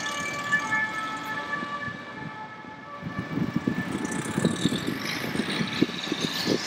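Fire truck siren fading as the truck moves away, then the low rumble of passing road traffic taking over about three seconds in.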